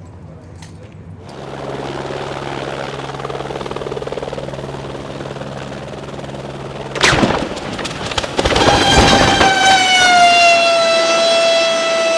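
Helicopter running with a steady low drone, then a sudden loud crash impact about seven seconds in, followed by a loud siren-like tone that drops slightly in pitch and then holds steady.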